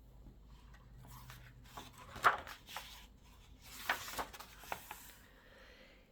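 Rustling and rubbing of a book being handled, in several short bursts, with a sharp tap a little over two seconds in.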